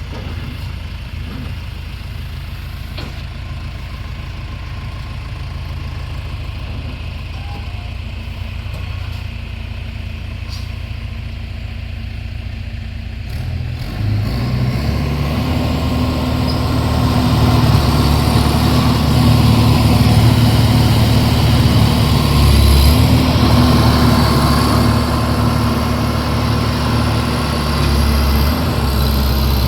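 Tractor engine running steadily, then getting clearly louder about halfway through and staying loud.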